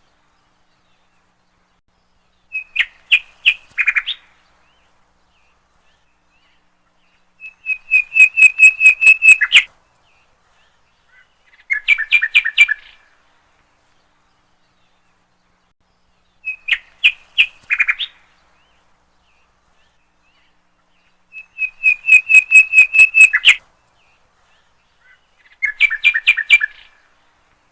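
Recorded bird song looped as a background track: short bursts of rapid chirping notes, six phrases a few seconds apart with silence between, the same sequence repeating about every fourteen seconds.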